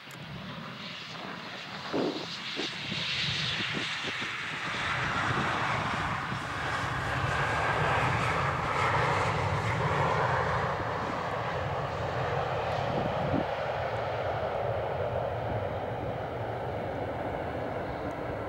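Embraer 190 jet airliner passing on landing, its two turbofan engines giving a rush of jet noise that builds, peaks about halfway, then slowly fades, with a faint whine falling in pitch as it goes by.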